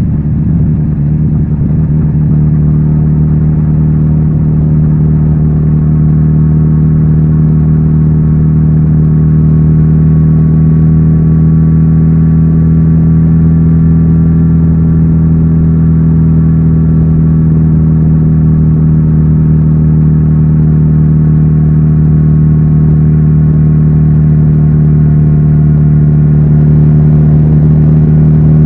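Kawasaki Z900RS's 948 cc inline-four engine running through its stock exhaust, held at a steady engine speed and growing slightly louder near the end.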